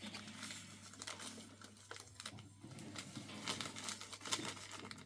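Irregular crinkling and scratchy clicks of something being handled, over a faint steady low hum.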